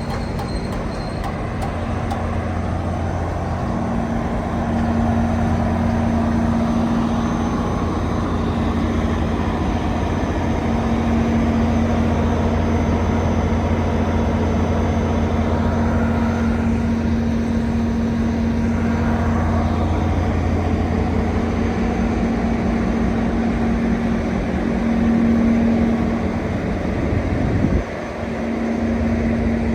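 A vehicle running steadily: an even low hum with a droning tone over it, dropping away briefly near the end.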